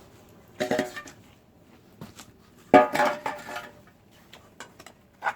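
A cat meowing twice, a shorter call about half a second in and a louder, longer one near the middle, with faint clicks of dishes and cutlery around it.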